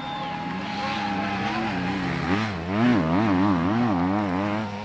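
Off-road enduro motorcycle engine revving hard. From a little past two seconds in it gets louder and the revs swing up and down about twice a second, as the throttle is worked over rough ground.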